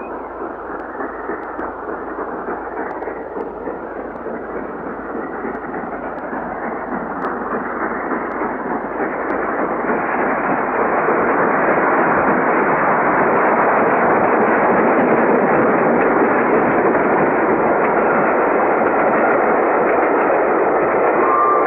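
Steam locomotive, the LNER A3 Flying Scotsman, hauling a passenger train at speed, its exhaust and running noise a dense, unbroken rush. It grows louder over the first ten seconds or so, then holds steady and loud.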